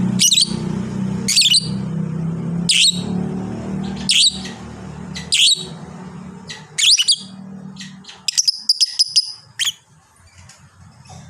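Lovebird calling with loud, shrill chirps about every second and a half, then a quick run of chirps near the end. A low hum sits under the calls and fades about two-thirds of the way through.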